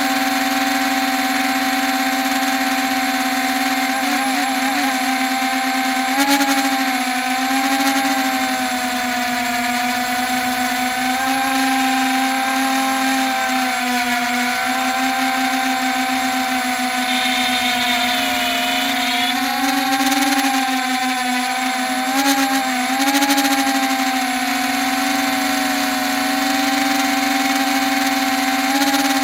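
Small quadcopter's electric motors and propellers whining steadily in flight, the pitch wavering now and then as the throttle shifts. It flies roughly on a damaged motor and a loose arm.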